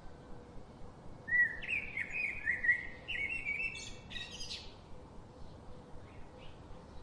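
A songbird singing one quick phrase of rapidly repeated chirping notes, starting about a second in and lasting about three and a half seconds, over a steady background hiss.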